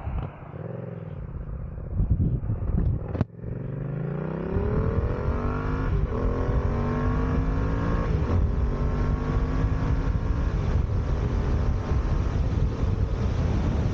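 Yamaha MT-07 (FZ-07) parallel-twin engine running through an aftermarket full exhaust fitted with a dB killer insert, accelerating hard. After a sharp click about three seconds in, the engine note climbs, dips briefly at upshifts around six and eight seconds, then holds a steady pitch while cruising.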